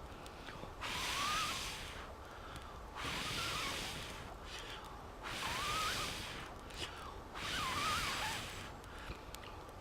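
A person blowing hard on a smouldering campfire of damp kindling to revive it: four long blows about two seconds apart, each with a faint wavering whistle, with breaths drawn in between.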